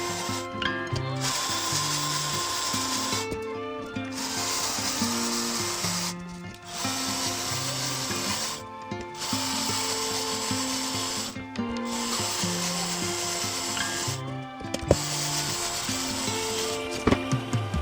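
A power tool running on sheet metal in long stretches broken by short pauses about every two and a half seconds, with background music of held, stepping notes underneath.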